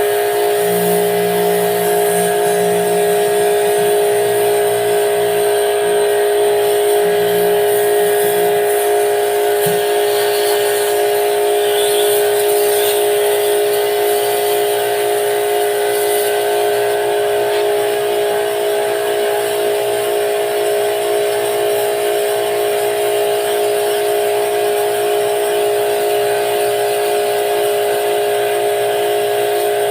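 Electric pressure washer running with a steady whine, as used to spray-clean a split-type air conditioner's coils.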